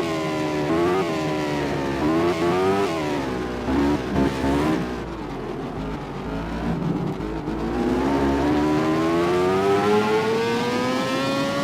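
MotoGP racing motorcycle engine at high revs. Its note drops in steps with quick blips in the first few seconds, as when shifting down under braking. It then runs low for a few seconds and climbs steadily as the bike accelerates through the gears.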